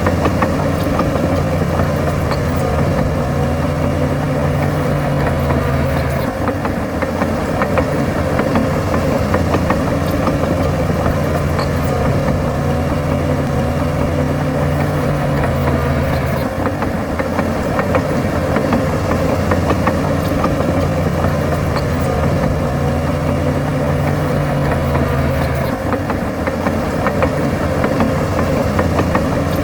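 Heavy diesel engine of a bulldozer running steadily, its note shifting in a cycle that repeats about every ten seconds as the machine works.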